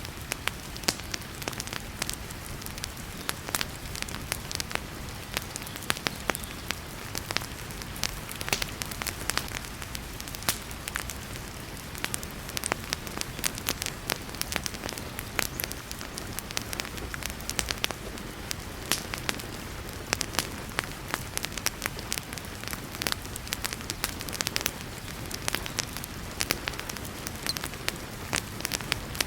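Wood fire crackling and popping in a fireplace, with many sharp irregular snaps over a steady hiss of heavy rain.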